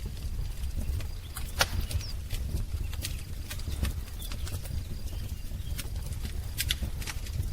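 Wood fire crackling: irregular sharp pops and snaps, the loudest about one and a half seconds in, over a steady low rumble of the flames. A bird chirps faintly once or twice in the background.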